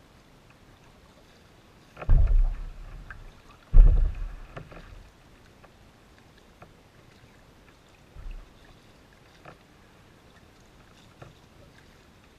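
Kayak being paddled through shallow water: two heavy low thumps about two seconds apart, each dying away over a second, then a fainter thump and a few light clicks amid quiet.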